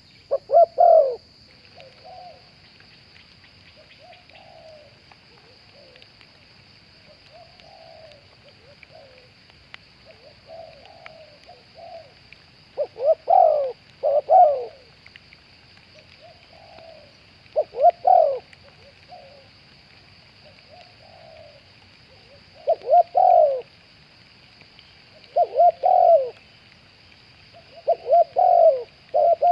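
Spotted doves cooing: loud close coo phrases come every few seconds, with fainter, more distant coos in between.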